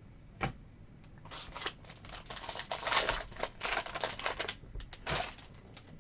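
Sports card packaging being handled and opened by hand. A single click comes first, then about a second in a dense run of crackling and rustling that lasts some four seconds.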